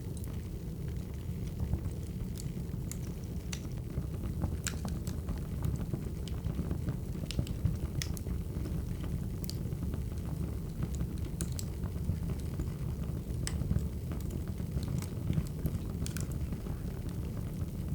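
Burning firewood crackling: irregular sharp pops and crackles over a steady low rumble.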